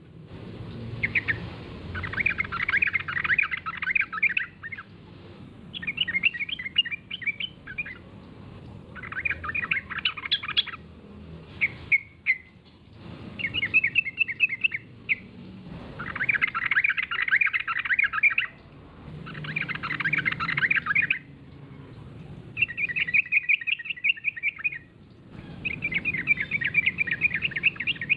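Yellow-vented bulbul (trucukan) singing a prolific lure song: repeated runs of rapid, warbling notes, each lasting one to three seconds, with short pauses between them.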